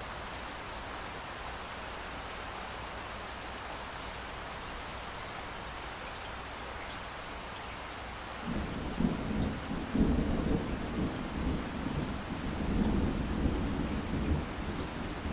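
Steady rain falling. About eight seconds in, a low rolling rumble of thunder comes in, loudest around two seconds later, and keeps rumbling on under the rain.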